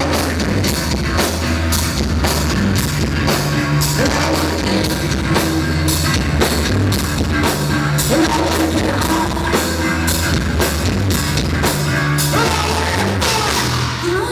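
Live rock band playing loudly: distorted guitars, bass and a driving drum kit, with some singing. The music drops away right at the end.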